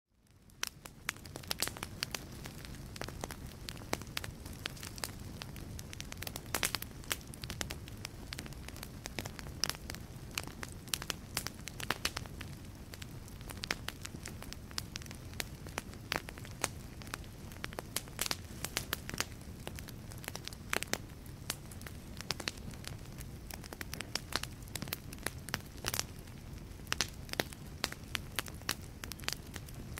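Wood fire burning in a fireplace: a steady low rumble of flames under frequent, irregular sharp crackles and pops from the burning logs, fading in at the start.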